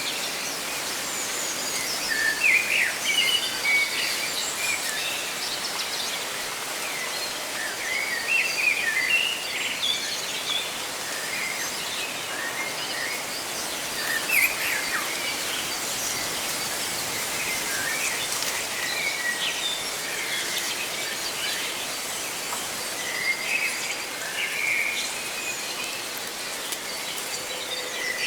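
Many small birds chirping and trilling in short calls throughout, over a steady rustle of leaves.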